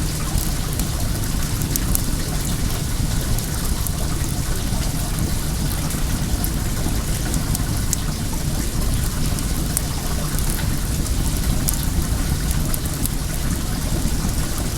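Steady rush of running well water, with scattered small crackles and pops from a wood bonfire.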